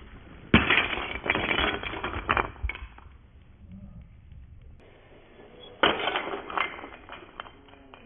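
Wooden Jenga blocks clattering and knocking together in two spells of rapid clicks: one starting about half a second in and lasting a couple of seconds, a shorter one near the end.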